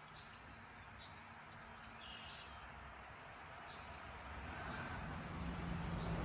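Faint, short bird chirps over a low traffic rumble that grows louder near the end.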